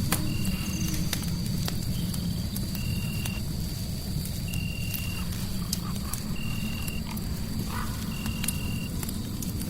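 Crackling wood fire, with scattered sharp pops over a steady low rumble of flames and noise. A short high chirp repeats about every two seconds, and a thin, steady high tone runs underneath.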